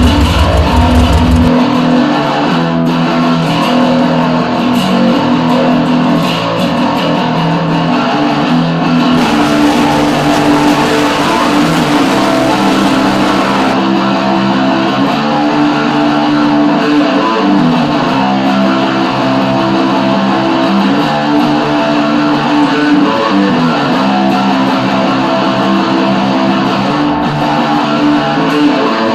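Garage rock music led by electric guitar, loud and continuous, with no singing. A deep bass note drops out about a second and a half in.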